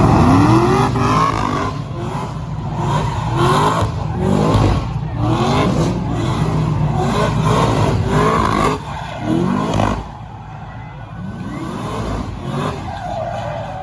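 Car engine revved over and over in short rising bursts, about one a second, then dropping to a lower level about ten seconds in.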